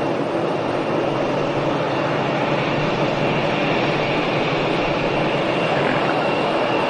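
Aircraft engine running steadily: a loud, even noise with a faint high whine.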